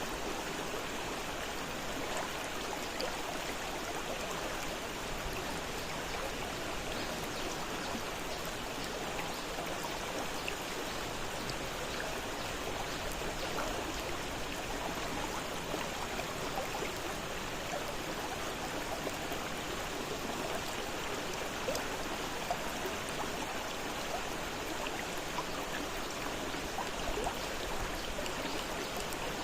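Fast-flowing river water rushing and splashing steadily, a continuous hiss with small splashes and gurgles.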